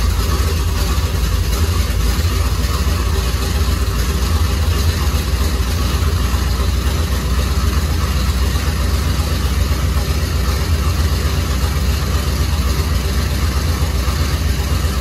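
Twin-turbocharged small-block Chevy V8 idling steadily at about 850–950 rpm on Holley Terminator X fuel injection, still cold soon after starting, heard from inside the cab.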